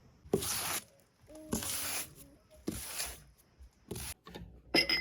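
Four short, rough rubbing strokes about a second apart, then a sharp clink near the end with a brief ringing tone.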